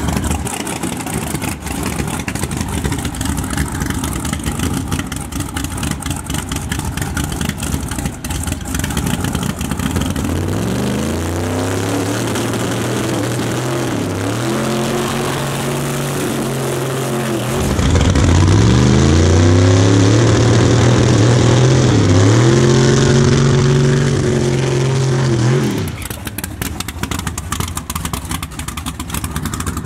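Big-block V8 drag-race Camaro engine running with a rough, crackling sound. About ten seconds in it is revved in several rising pulls, each held high for a few seconds, loudest past the middle. It drops back to the rough running sound near the end.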